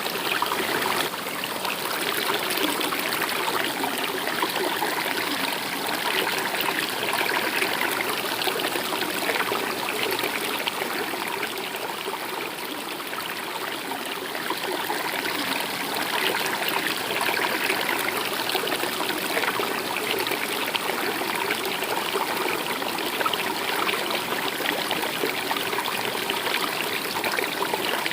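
A river or stream running steadily, water flowing and trickling over rocks.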